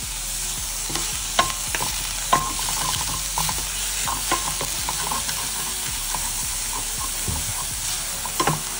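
Chopped onion and crumbled paneer frying in oil in a stainless steel pan, sizzling steadily while a wooden spatula stirs and scrapes against the pan, with a few sharp knocks of the spatula on the metal.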